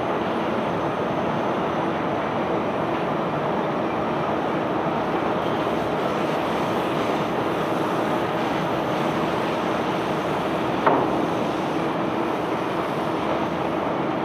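Steady mechanical rumble of a self-unloading barge discharging cobblestones, with a single sharp knock about eleven seconds in.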